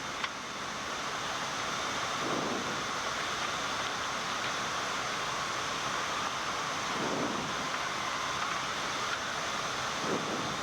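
Steady rushing airflow noise on a Boeing 787 flight deck during final approach, with the landing gear down and flaps extended. There is a short click just after the start.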